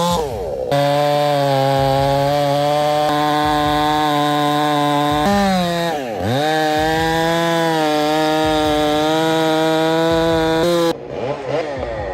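Large two-stroke chainsaw running at full throttle in a cut, holding a steady high pitch. About six seconds in its pitch dips sharply and climbs back. It cuts off abruptly near the end.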